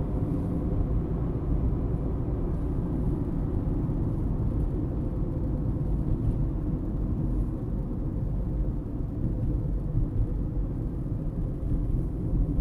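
Steady low road and engine rumble of a car heard from inside the cabin.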